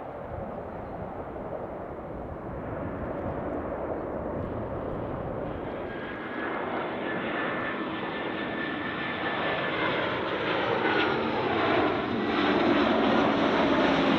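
Jet airliner on short final approach, its engines growing steadily louder as it comes in. A high engine whine joins about halfway through, and sweeping tones come in near the end as it draws closest.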